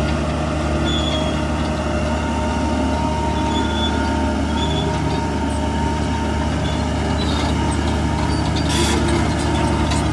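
Heavy diesel earthmoving machinery running steadily, with faint high squealing tones over the engine drone and a short hiss near the end.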